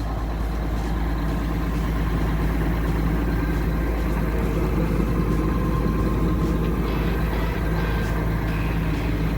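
JCB Fastrac tractor engine running steadily under load, powering the Triolet mixer wagon as it unloads chopped corn silage.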